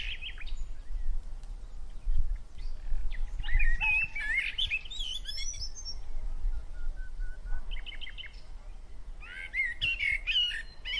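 Small birds chirping in short clusters of quick, wavering high notes, with a low steady rumble underneath.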